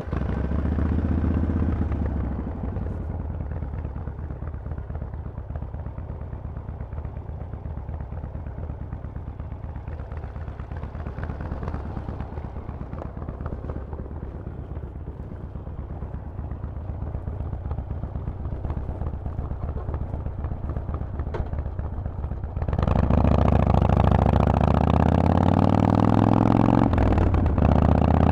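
Harley-Davidson Forty-Eight's air-cooled 1200 cc V-twin, through a Vance & Hines exhaust, fires up suddenly and settles into a steady, lumpy idle rumble. About 23 s in it gets louder, with its pitch rising and falling as it is revved.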